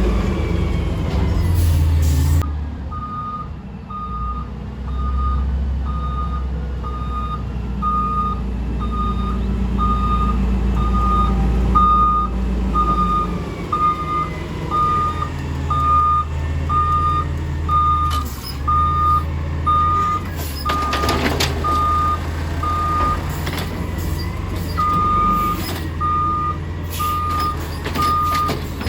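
Small automated side-loader garbage truck backing up: its reversal alarm beeps steadily about once a second over the running engine. It stops for a couple of seconds near the end, then resumes, with a few metallic clanks shortly before the pause.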